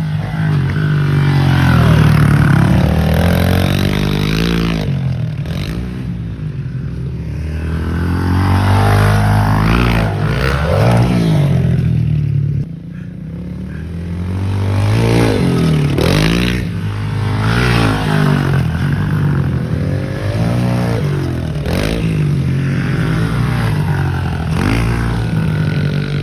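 Small 110cc pit bike engines revving up and down as the bikes ride the track, the engine note rising and falling again and again, with more than one bike heard at once at times.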